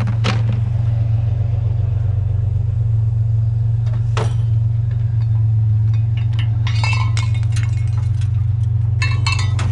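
Vehicle engine idling steadily under clusters of metallic clinks and rattles as small scrap metal pieces are dropped into a bucket, with a single sharp knock about four seconds in.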